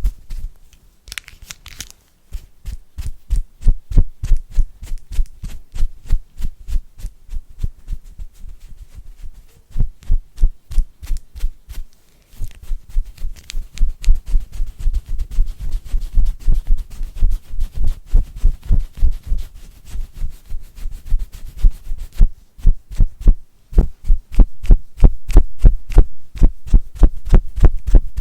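Close-miked rapid tapping, several taps a second with deep thuds, broken by short pauses.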